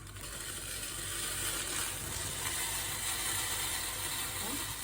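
Steady sizzling hiss from an aluminium Neapolitan flip coffee pot heating on the stove, its water coming up to the boil.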